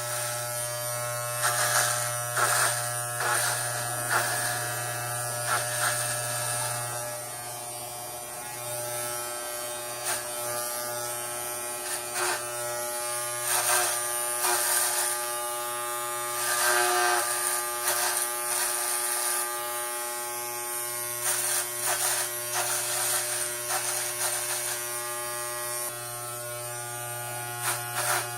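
Electric hair clippers buzzing steadily while shaving a head, with irregular brief rasping surges as the blades cut through hair against the scalp.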